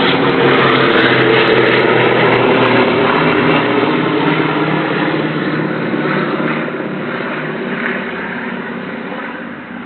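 WWII-era propeller aircraft's piston engines running at power close by, a loud multi-engine drone that fades steadily over the second half as the plane draws away.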